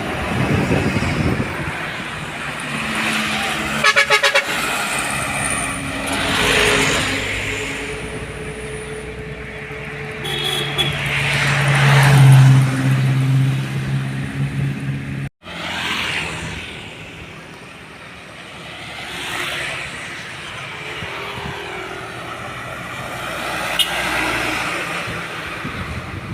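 Heavy trucks driving past one after another, their engine and tyre noise swelling and fading with each pass. A vehicle horn sounds in a fast pulsing toot about four seconds in, and held horn-like tones follow. The sound cuts out abruptly about fifteen seconds in and picks up again.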